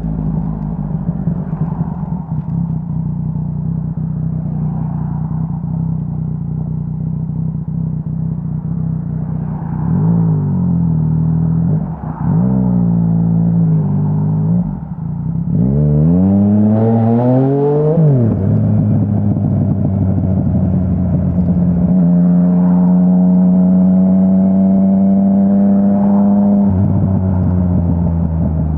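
Yamaha Tracer 900's 847 cc inline three-cylinder engine through a Dominator HP3 full exhaust system, riding along. It runs steadily at first, then the note rises in three pulls under acceleration, each broken by a brief dip at a gear change. It then settles into a steady cruise, and the note drops near the end.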